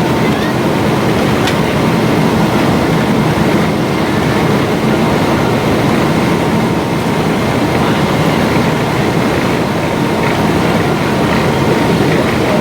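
Steady jet engine and airflow noise heard inside the cabin of a Boeing 777-200 airliner, with a faint steady whine.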